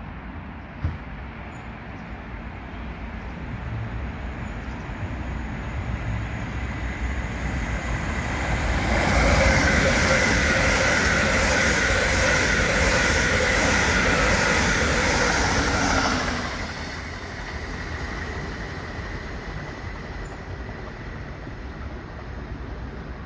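GWR Class 800 Intercity Express Train passing at speed. It grows louder as it approaches, then gives a loud rush of wheels on rail with a steady high whine for about seven seconds as the carriages go by. The sound drops off sharply as the rear of the train passes.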